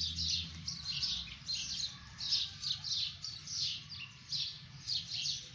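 Small birds chirping busily, many short high chirps following one another in quick succession, with a faint low hum under them at the start.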